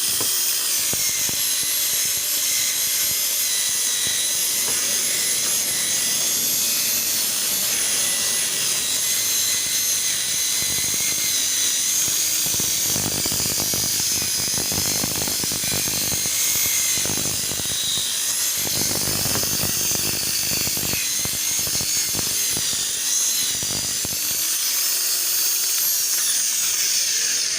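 Electric polishing machine running at high speed, buffing the plastic lens of a car headlamp to take out sanding scratches. It gives a steady high whine whose pitch wavers a little, and it cuts off suddenly at the very end.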